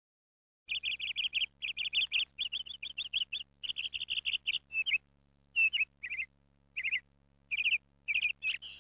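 Small bird chirping in quick runs of high, rapidly repeated trilled notes, broken by short pauses; it starts just under a second in.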